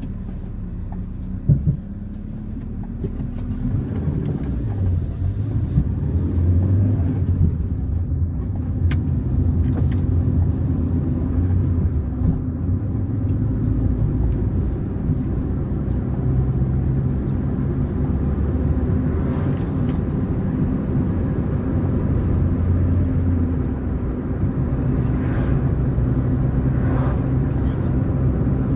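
Car engine and road noise while driving, the engine note rising as the car picks up speed in the first few seconds, then running steadily.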